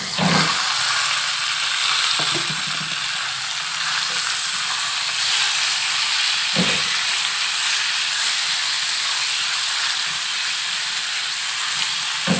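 Raw chicken pieces sizzling in hot oil and butter in a wok, a steady hiss, as they begin to fry. A few brief soft knocks come as a silicone spatula stirs them.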